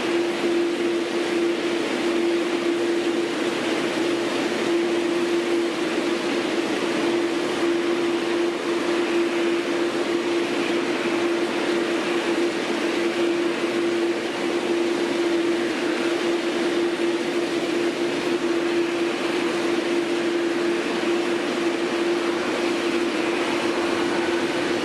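Jet airliner engines running steadily at low power: a constant hum over an even rushing noise, with no rise or fall in pitch.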